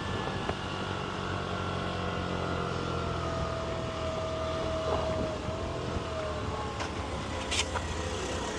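Moped engine running steadily while riding, with a faint higher whine for a few seconds in the middle.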